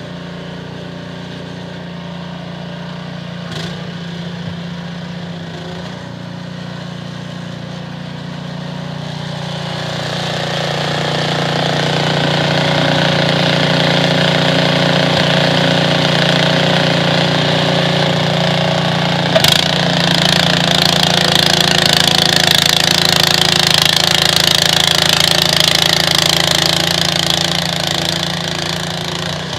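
Small petrol engine of a snowblower running steadily, growing louder with a rising hiss about a third of the way in; a single sharp click comes about two-thirds through.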